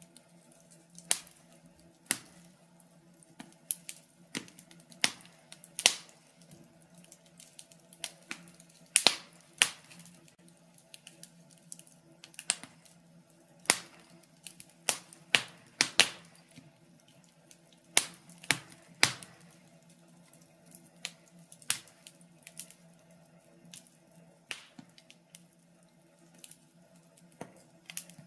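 Wood fire crackling in a fireplace: sharp, irregular pops and snaps about once or twice a second, some louder than others, over a faint steady low hum.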